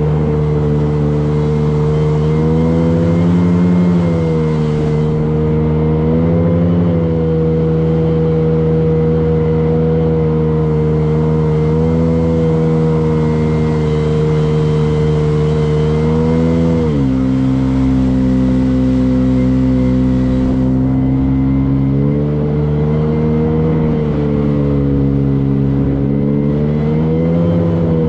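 Motorboat engine running steadily under way. Its note drops sharply about two-thirds of the way through as the throttle is eased, then climbs back up near the end.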